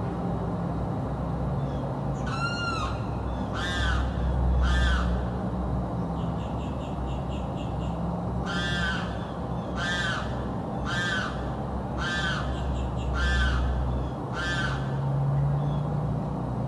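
A bird screaming: harsh, repeated calls, first three and then a run of six at about one a second, over a low steady rumble.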